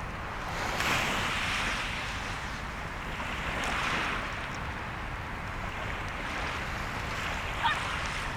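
Surf washing on the shore, swelling twice, with wind rumbling on the microphone. A brief sharp crackle near the end.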